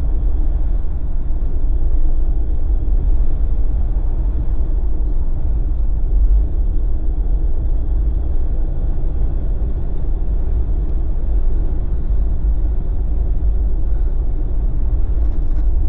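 Jeep driving steadily along the road: a constant low rumble of engine and tyre noise.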